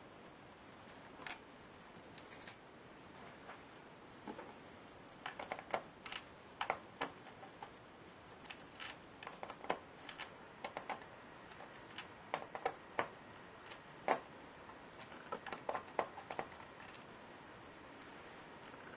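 Irregular light clicks and taps of a Lenovo Y570 laptop's plastic and metal parts being handled during disassembly or reassembly, in loose clusters.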